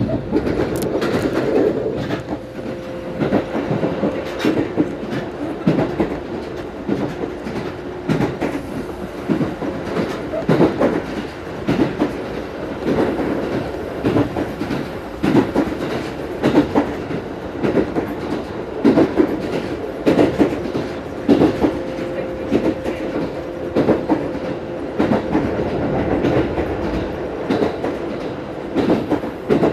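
Chichibu Railway train running, heard from inside the car: wheels clacking over rail joints at uneven intervals over a steady running hum.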